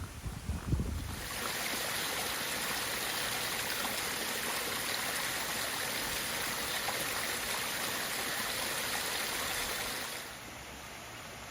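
Rushing water of a woodland stream, a steady even rush that sets in about a second in and drops away suddenly near the end. A few low thumps on the microphone come before it.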